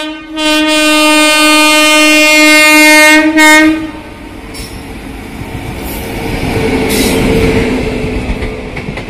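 WAG-9 electric locomotive's air horn sounding one long, loud blast that cuts off about four seconds in. It is followed by the rumble and wheel clatter of the passing train, which grows louder over the next few seconds.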